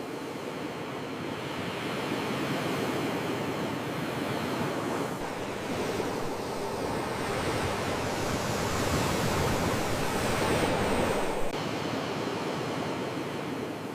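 Sea waves washing onto the shore as a continuous rushing surf. A larger swell builds from about a third of the way in and is loudest near the end, then falls away suddenly.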